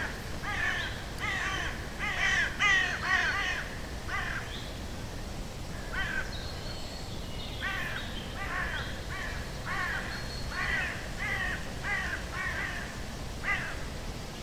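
A bird calling over and over, short calls about two a second in two long runs with a brief pause between them.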